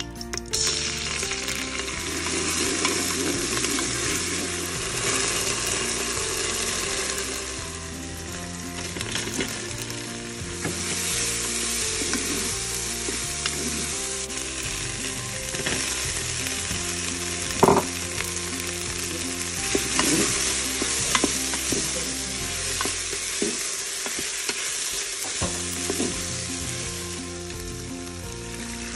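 Chopped onion, sweet peppers, chillies and cherry tomatoes sizzling in hot oil in the non-stick pot of a Cookeo electric multicooker while a spatula stirs them, the sizzle swelling and easing as they are turned. A sharp knock, the spatula against the pot, a little past halfway.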